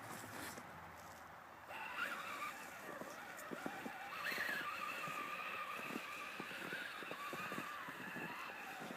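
Electric motor and gear drive of an RC scale crawler truck whining as it drives through snow, the pitch rising and falling with the throttle, over many small crunching clicks.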